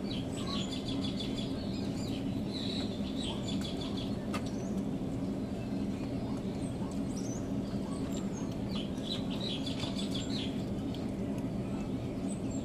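Birds chirping in quick runs of high repeated notes, three times, over a steady low hum.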